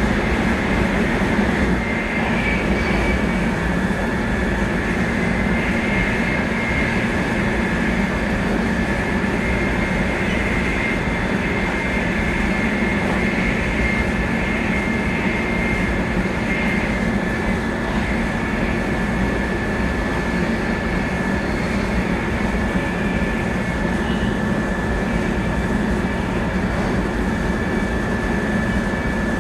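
700 series Shinkansen running at a steady speed, heard from inside the car: a steady rumble with a steady high-pitched whine over it.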